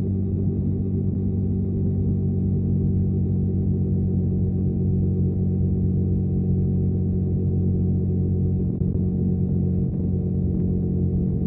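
KTM Duke 125's single-cylinder engine through a Storm GP aftermarket exhaust, running at a steady engine speed with an even, unchanging pitch.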